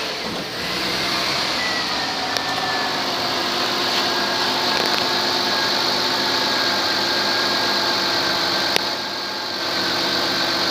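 2006 Ford Freestyle's 3.0 L Duratec V6 idling steadily, with a faint high whine over the engine note. There is a sharp click about nine seconds in.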